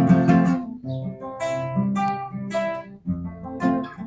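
Acoustic guitar strumming chords, each struck chord left to ring for about half a second.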